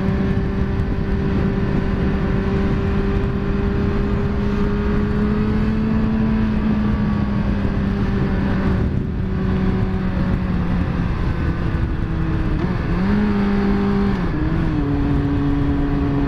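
Yamaha FZ1 motorcycle's inline-four engine running steadily under a rush of noise. The engine note rises briefly about thirteen seconds in, then settles at a lower pitch.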